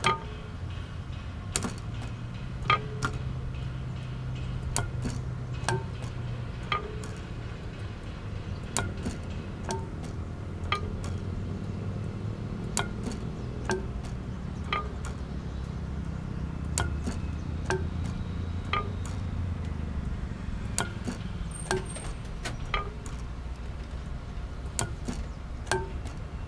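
Sound-art piece of chime-like strikes, about one a second, each ringing briefly, over a low drone that fades out about two-thirds of the way through.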